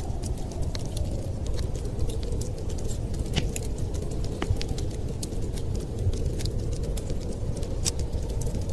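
Wood fire crackling: many sharp, irregular snaps and pops over a steady low rumble.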